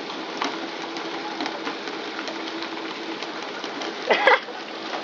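Steady running noise on board a tuna fishing boat: a continuous hiss with a held hum that drops out about three seconds in, a few light clicks, and a short shout about four seconds in.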